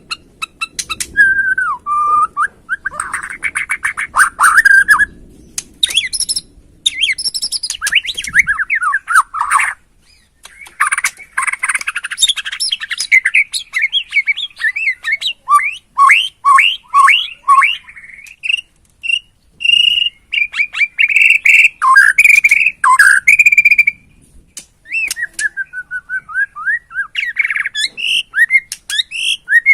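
White-rumped shama (Bornean murai batu) singing a fast, varied song of whistled notes, rapid trills and sharp clicking chatter, in phrases with short pauses between them.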